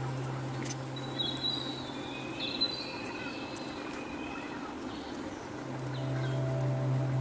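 A few faint bird chirps, short gliding calls between about one and three seconds in, over a steady background hiss with a few light clicks.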